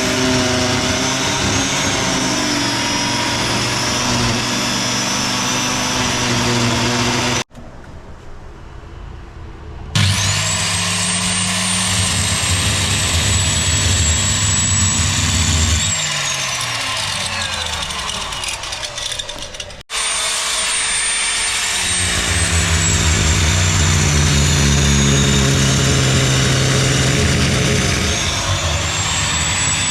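High-speed handheld power tool motor running with a high whine over a lower hum. About a third of the way in it spins up, runs steadily, then winds down in a falling whine. In the last stretch its pitch sags as if under load and climbs back near the end.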